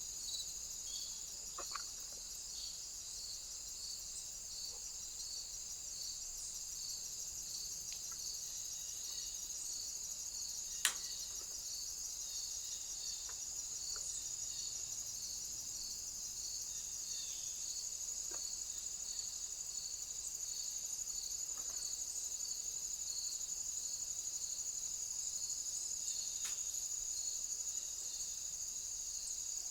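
Night insect chorus of crickets chirring steadily, one high continuous trill with a slower, regularly pulsing chirp beneath it. A single sharp click about eleven seconds in, with a few fainter ticks scattered through.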